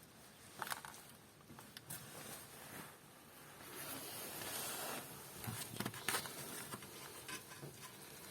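Light, scattered clicks and taps of hands and a tool working on the hydraulic lash adjusters in the open cylinder head, with a soft hiss-like rustle about halfway through.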